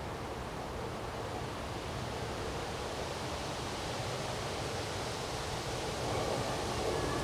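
Strong wind blowing in a windstorm, a steady rush that swells a little about six seconds in.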